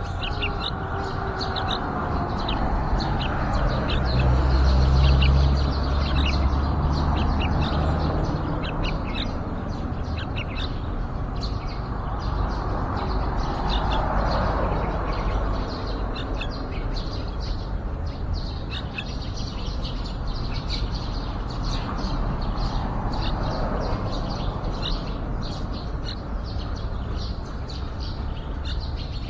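Yellow-vented bulbuls calling: a steady run of short, high chirps. Under them, a low rumble swells loudest a few seconds in and rises and fades twice more.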